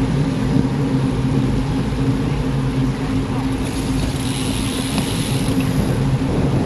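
A motor vehicle's engine running at a steady speed, with road and wind noise. A hiss rises for a couple of seconds around the middle.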